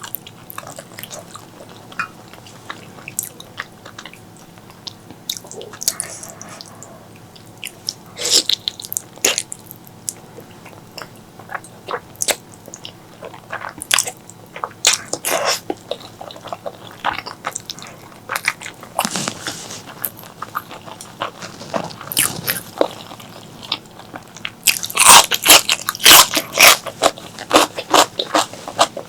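A person chewing and biting a mouthful of spicy pork leg curry with white rice: a run of short, sharp mouth clicks and smacks, coming thickest near the end.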